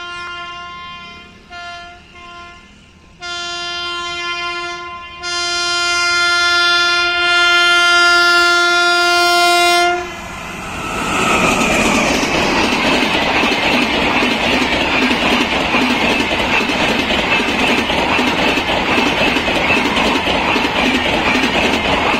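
An Indian electric locomotive's horn sounds in several blasts: a couple of short toots, then two longer ones, the last held about five seconds. Then the double-decker passenger coaches pass close by, a loud steady rumble with clickety-clack of the wheels on the rails.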